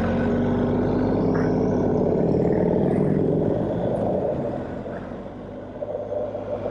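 Motorcycle engine running at low speed, its pitch easing gently down, then running more quietly after about four and a half seconds.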